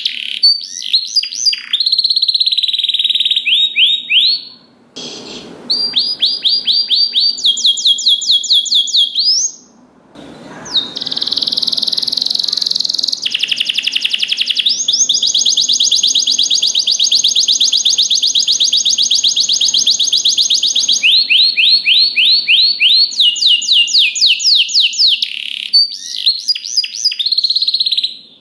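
Domestic canary singing: fast trills of rapidly repeated high notes and long, unbroken rolls, with two short breaks in the song.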